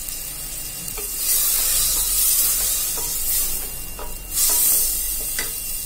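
Drumstick, onion and tomato pieces sizzling in hot oil in a stainless steel pressure cooker as they are stirred with a wooden spatula, freshly coated in sambar powder; the sizzle swells twice, with a few scrapes of the spatula against the pot.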